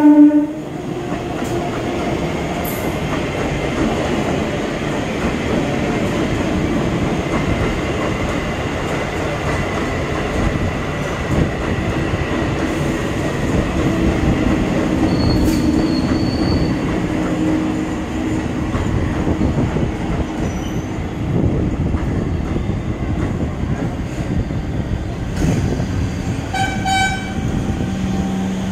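Eastern Railway EMU electric local train passing at speed, a steady rumble and clatter of its wheels on the rails. Its horn cuts off just as the passage begins, and a thin high squeal comes about halfway through.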